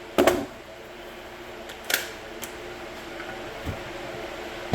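Short clicks and knocks of a cordless impact wrench being handled and its socket fitted onto a nut: one sharp click just after the start and lighter clicks about two seconds in, over a steady low hum.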